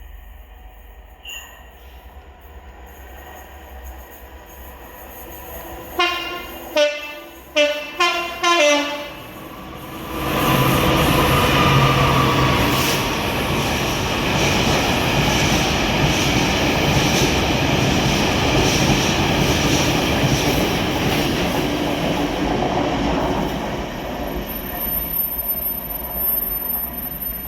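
Train horn sounded in about five short, quick blasts. Then a train passes close by with a loud, steady rush of wheels on rails lasting over fifteen seconds, and a thin high squeal comes in near the end.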